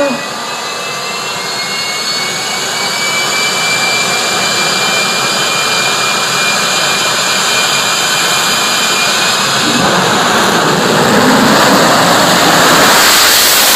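Jet truck's jet engine running, its turbine whine slowly rising in pitch as it grows louder. About ten seconds in, a heavier, louder rush of noise builds over the whine.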